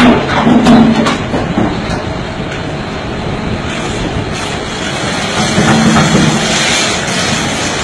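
Big rocks being crushed on a truck: loud knocking and crunching in the first second and a half, then a steady din of a heavy machine's engine running, swelling again about six seconds in.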